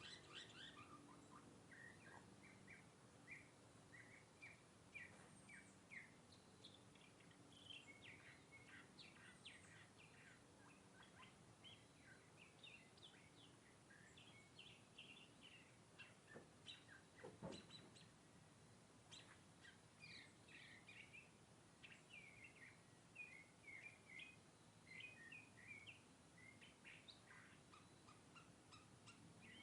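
Mockingbird singing: a long run of short, varied chirping phrases, each repeated a few times, over a faint low hum. A single short knock comes a little past the middle.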